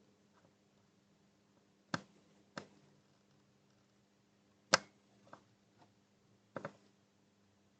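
Sharp light clicks and taps of soldering tools against a circuit board and HDMI port during hand soldering, about five in all, the loudest a little past halfway. A faint steady hum runs underneath.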